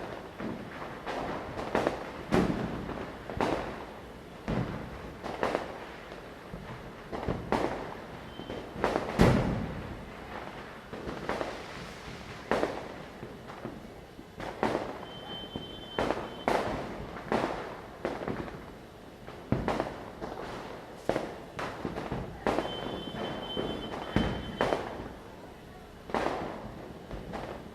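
Diwali night firecrackers going off one after another at irregular intervals, near and far, with the loudest bang about nine seconds in. A few brief high whistles sound in between.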